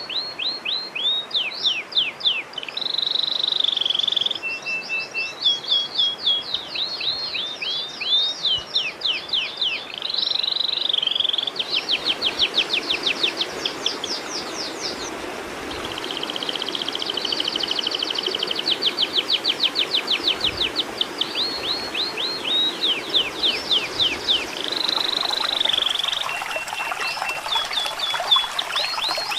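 Recorded songbird song played as masteran for training caged songbirds: a fast run of high, downward-sweeping notes, several a second, broken by short held whistles and a rapid buzzy trill about halfway through. The same phrase with its held whistle comes back near the end.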